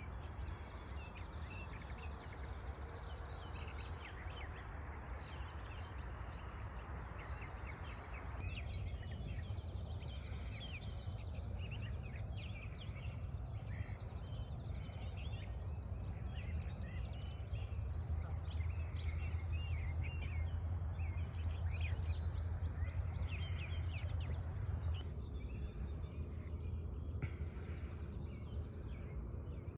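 Birds chirping and twittering in many short, high calls throughout, over a steady low rumble of wind or outdoor noise. The background changes abruptly about a third of the way in and again near the end.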